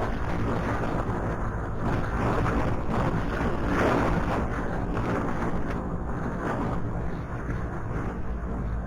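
Motorcycle engine running while riding, with wind rushing over the microphone; the sound swells louder about four seconds in, then eases back.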